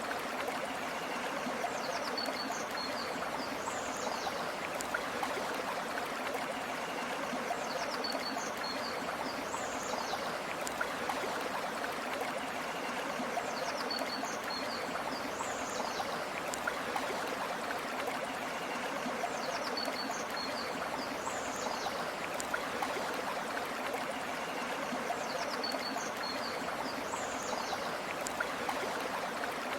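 River water flowing steadily. A short, high call of a few chirps with a quick whistle repeats about every six seconds.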